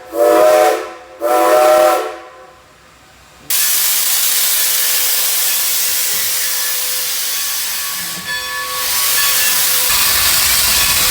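Steam locomotive whistle sounding two short chord-like blasts, the signal that the train is about to move off. A few seconds later a loud, steady hiss of venting steam starts suddenly.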